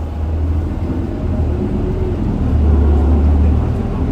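Isuzu Erga city bus heard from inside the cabin while under way: a low, steady diesel engine drone with road noise. The drone grows louder about two and a half seconds in and eases off again near the end.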